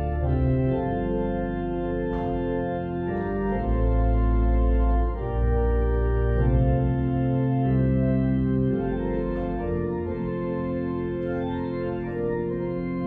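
Church organ playing slow music in held chords over a deep sustained bass, the chords changing every second or two.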